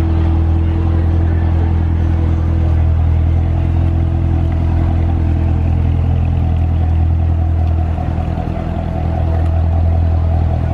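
A car engine running at a steady, constant speed, a low rumble that holds the same pitch throughout and eases slightly about eight seconds in.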